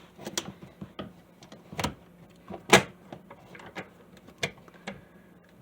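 Scattered small clicks and knocks of a bathroom sink's pop-up drain linkage being handled as the lift rod is moved down one hole on the strap, with the loudest click a little before halfway.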